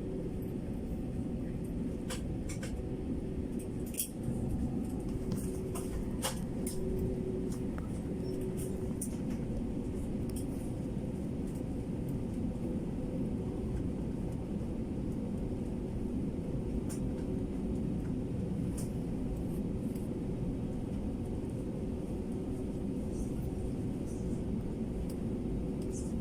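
Steady low rumble of a passenger airliner's engines and airflow heard inside the cabin, with a faint steady hum and a few light clicks and rattles over it.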